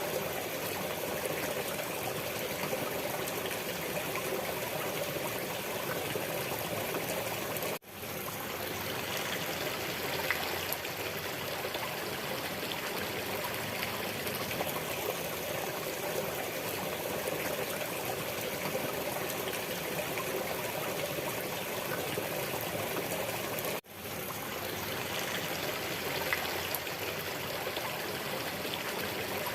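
Steady running water of a flowing stream. It drops out briefly twice, about 16 seconds apart, and fades straight back in, as a looped recording does.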